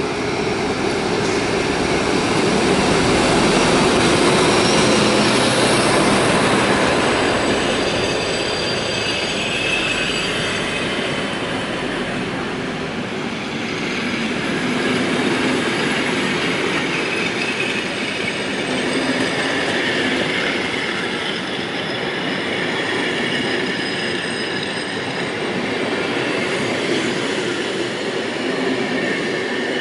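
Dr13 diesel locomotive running under power as it pulls a train out, loudest about four seconds in, followed by a string of old coaches rolling past with wheels squealing and clacking over the rail joints.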